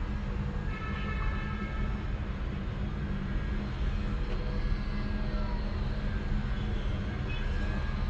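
Domestic cat purring steadily in its sleep, a continuous low rumble close to the microphone.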